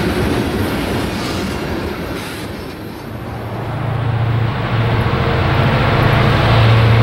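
Tank cars of a freight train rolling past, wheels clattering on the rails. About three seconds in this gives way to the steady low drone of diesel freight locomotives working a heavy train up a grade, growing louder as they approach.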